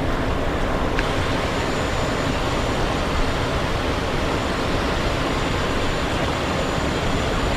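Steady cockpit noise of a Cessna Citation XLS business jet in climbing flight: an even rush of airflow and engine noise, with a faint high steady whine.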